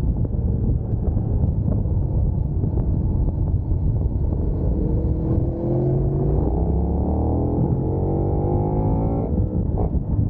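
Sport motorcycle engine accelerating hard, its pitch climbing steadily for about five seconds before cutting off suddenly near the end, as at a gear change or roll-off. A loud rush of wind on the microphone runs underneath.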